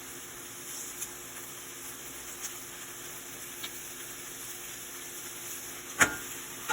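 Food frying in a pan, a steady sizzle with a few faint pops. A single sharp click about six seconds in.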